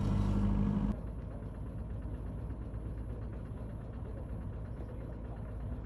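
Diesel engine of a compactor roller running: a louder, humming engine for about the first second, then a sudden change to a quieter, lower engine rumble with a fine rattle.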